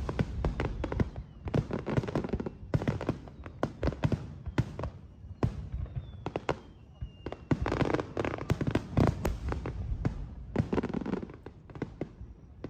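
Aerial fireworks going off in rapid succession: many sharp bangs from shell bursts mixed with dense crackling, thinning out near the end.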